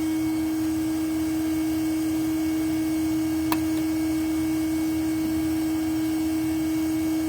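Steady electric motor hum holding one pitch, with a single sharp click about three and a half seconds in.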